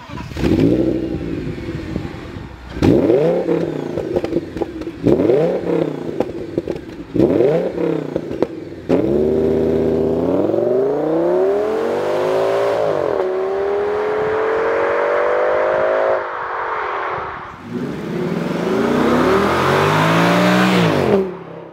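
Audi S6's 5.2-litre naturally aspirated V10 revved in four quick blips, each rising and falling, with a few sharp cracks between them. Then it is held up in longer climbs in pitch, with a small step partway through, drops away, and climbs and falls once more near the end.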